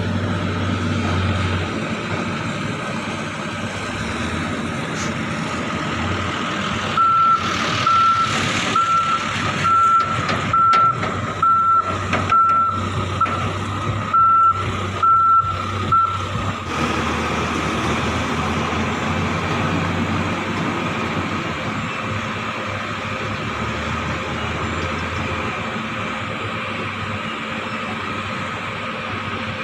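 Diesel engines of heavy machinery and a truck running steadily. A reversing alarm beeps about once a second for some nine seconds in the middle, then stops.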